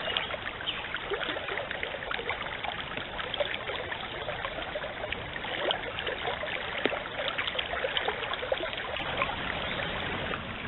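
Forest stream running and trickling steadily, with many small quick splashes of water.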